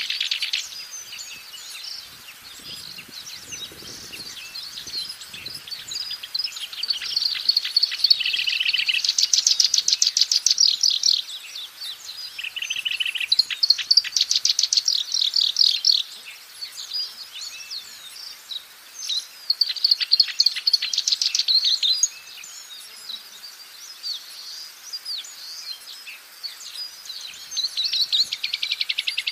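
Black-browed reed warbler singing: phrases of rapid repeated notes lasting a few seconds each, separated by short pauses.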